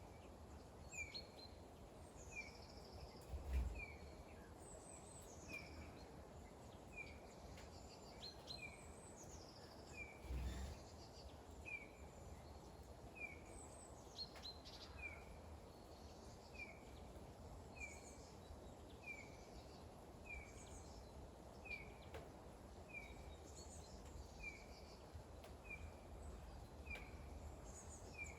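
Small birds calling: one repeats a short chirp about once every second or so, while others twitter higher and irregularly. Under them runs a faint steady hiss of rain, with two low thumps, about three and ten seconds in.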